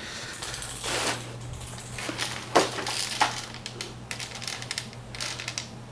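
A large clicking torque wrench being pulled to tighten an engine bolt, giving a few sharp clicks and brief metallic scrapes; the clicks come as the wrench goes past its set torque while the bolt is turned further.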